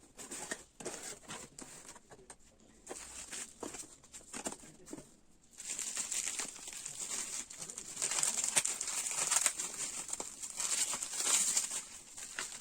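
Handling noises: scattered small taps and clicks, then from about six seconds in a continuous crinkling rustle, like plastic or foil-like material being handled.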